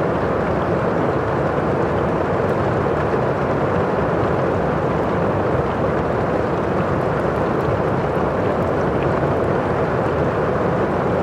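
Steady, even rushing of heavy rain from a thunderstorm ambience, with a few faint fire crackles on top.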